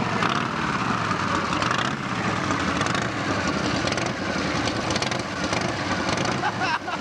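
V-twin cruiser motorcycle engine running steadily at idle just after being started, with a loose, uneven beat.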